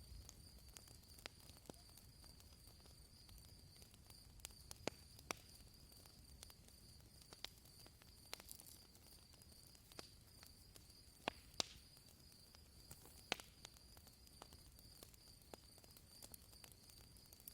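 Campfire of burning branches crackling faintly: sparse, irregular sharp pops, the loudest a close pair about two-thirds of the way in, over a faint steady high-pitched tone.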